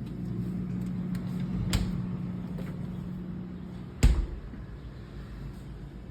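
A steady low hum, then a single loud thump of a refrigerator door about four seconds in, after which the hum drops away.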